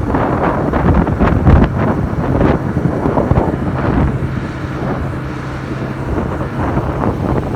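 Wind buffeting the microphone on a moving Bajaj Pulsar NS160 motorcycle, with the bike's single-cylinder engine running steadily underneath. The engine hum is clearest about halfway through.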